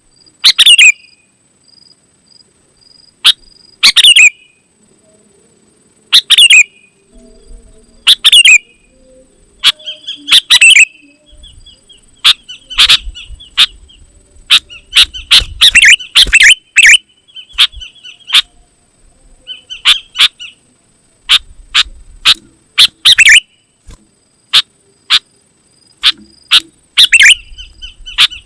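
Sooty-headed bulbul (kutilang) calling over and over in loud, sharp notes that drop in pitch. The calls come every couple of seconds at first, then quicken into rapid chattering runs through the middle.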